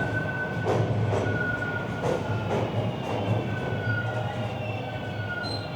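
TTC Line 2 subway train standing at the platform, giving a steady high electrical whine over a low hum. From about two-thirds of the way in, higher whines join and rise in steps.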